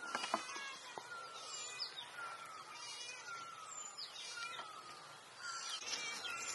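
Several songbirds chirping and singing, one of them repeating a short, slightly falling whistle about once a second. A couple of faint clicks come just after the start.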